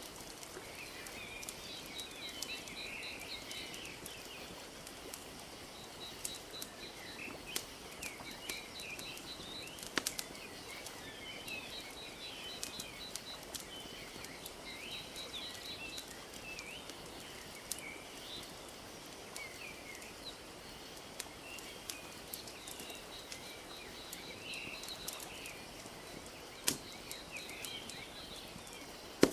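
Crackling fire with scattered sharp pops, the loudest about ten seconds in and again near the end, over a steady wash of lake water lapping. Birds chirp throughout, with a rapid repeating trill.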